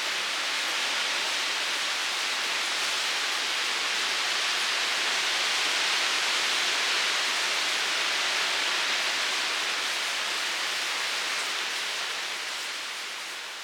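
Steady rush of flowing water, an even hiss strongest in the upper range, fading out near the end.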